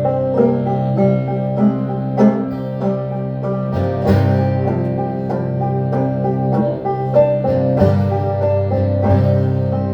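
Acoustic band music played live: plucked string instruments over a steady bass, in a folk or bluegrass style.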